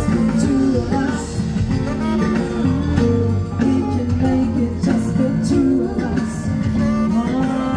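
Live band playing a song, with guitar prominent.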